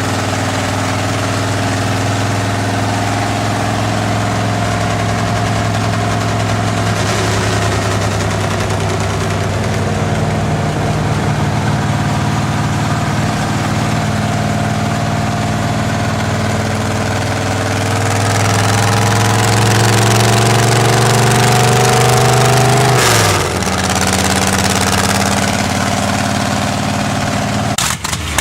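Engine of a 1933 Chevrolet rat rod running under way, a steady drone whose pitch slowly climbs and then falls off sharply about two-thirds of the way through before settling again.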